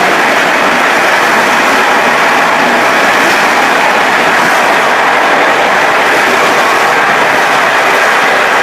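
Passenger train running at speed, heard from the rear of its last coach: a loud, steady rumble and rush of wheels on the rails.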